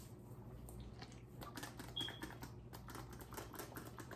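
Faint, irregular crackling and rustling of fingers working through damp, coily hair and massaging the scalp.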